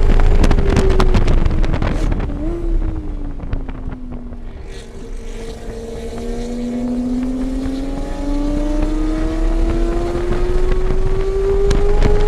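Car engine heard from on board during a lap of a race track. The engine note drops as the car slows for a corner, with a quick blip about two and a half seconds in, then climbs steadily in one long rising pull as the car accelerates out, over wind and road noise.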